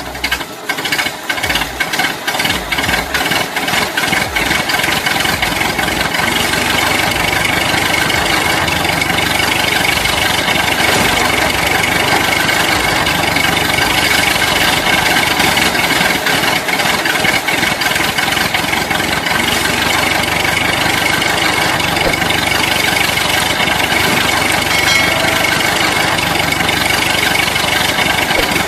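Small motor of a mini tractor model running steadily under load, with a steady high whine and some irregular ticking in the first few seconds.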